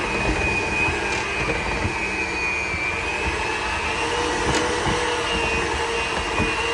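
Electric hand mixer running steadily, beating flour into cookie dough.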